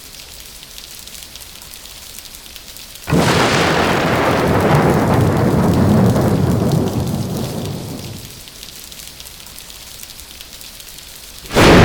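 Thunderstorm: steady rain hiss, broken about three seconds in by a sudden thunderclap that rumbles and dies away over about five seconds. A second clap breaks near the end.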